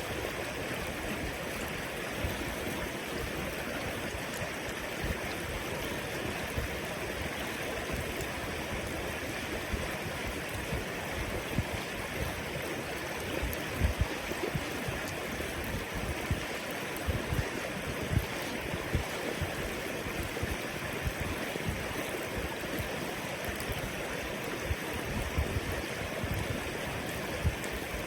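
River water flowing and rushing steadily, with scattered brief low thumps.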